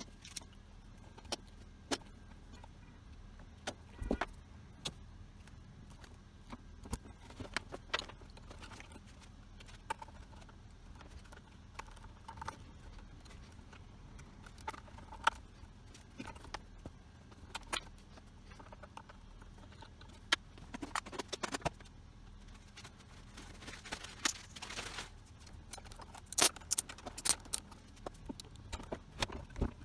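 Scattered light clicks and metallic clinks of small parts and tools being handled, coming in irregular bursts, over a faint steady low hum.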